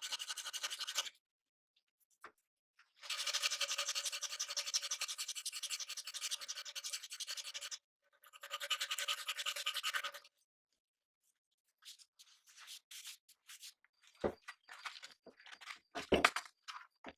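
A small handheld motorized tool buzzing in three bursts, the longest about five seconds, with gaps between them. It is followed by a series of light clicks and knocks, with two louder knocks near the end.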